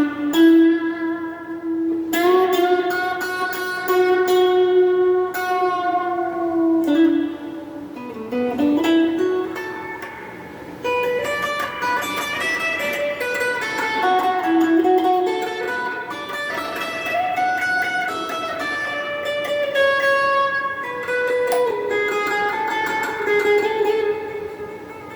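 Donner Q1 HSS Strat-style electric guitar through a small amp with phaser and hall reverb, playing a slow single-note melody of long held notes with slides between some of them.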